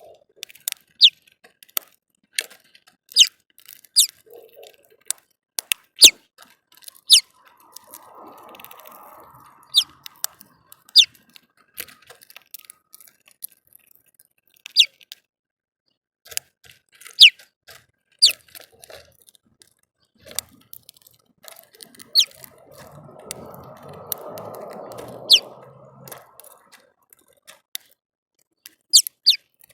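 Small birds at a feeder giving sharp, short, high chips at irregular intervals, each dropping quickly in pitch. Two soft rustles come about a quarter of the way in and again near the end.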